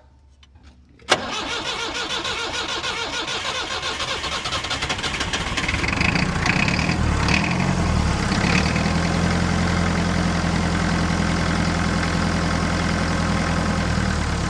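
Perkins 4.203 four-cylinder diesel of a 1962 Lansing Bagnall forklift cranked on the starter from about a second in, catching around halfway through and settling into a steady run, after air was bled from the injector lines.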